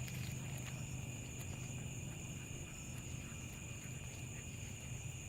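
Steady insect chorus, a constant high-pitched trill in two bands, over a low steady hum, with a few faint ticks.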